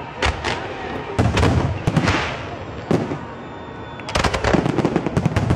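Display fireworks bursting: a few separate bangs spaced out over the first few seconds, then a dense, rapid volley of bangs near the end.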